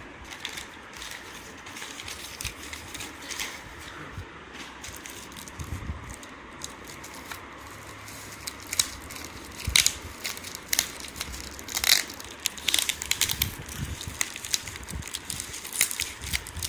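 Packaging of a Xiaomi USB-C power adapter being opened by hand: scattered clicks and rustles, busier and louder in the second half.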